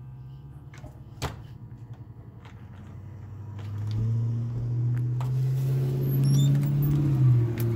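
A motor vehicle engine running, coming in loud about halfway and holding a steady low hum, after a single click about a second in.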